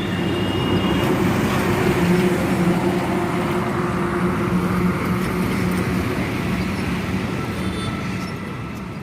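Heavy truck engine and tyres running on the road, a steady low drone that is loudest a couple of seconds in and fades toward the end.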